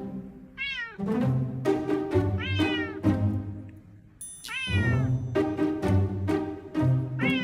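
A cat meowing several times, each meow a falling call, about two seconds apart, over background music with a steady beat.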